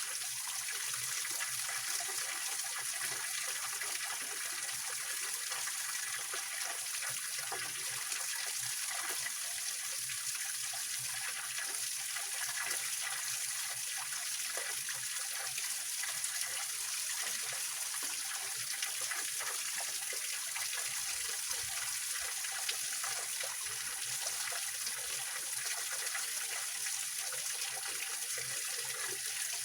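Small waterfall on a rocky mountain stream, water splashing and trickling over stones at a steady level, with a bright, hissy character.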